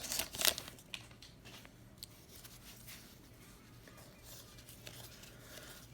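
Faint handling of trading cards: a short rustle and a few light clicks at the start, then soft scattered ticks as the cards are slid and flipped, over a low steady room hum.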